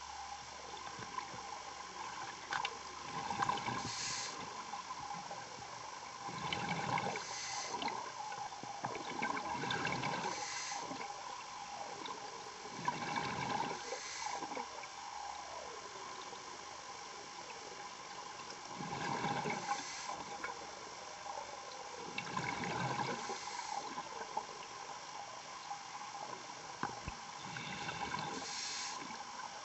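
A diver's breathing underwater through the breathing apparatus: a breath with a gush of exhaled bubbles about every three seconds, over a steady hum.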